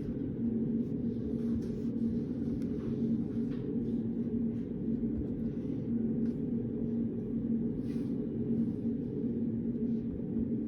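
Study-room background: a steady low hum with a constant tone in it, and faint scattered taps and rustles of desk work such as writing.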